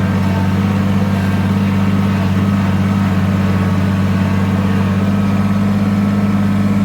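An engine running at a steady speed with a constant low hum, with no revving.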